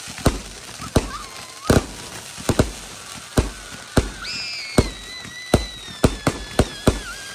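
Fireworks display: a steady run of sharp bangs, about two a second, each trailing off in a low rumble. From about four seconds in, a long high whistle sounds over them, falling slowly in pitch.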